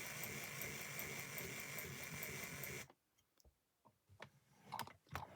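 Model railway locomotive running along the track: the whirr of its small electric motor and gears with a fast regular ticking, cutting off suddenly about three seconds in as it stops, followed by a few faint clicks.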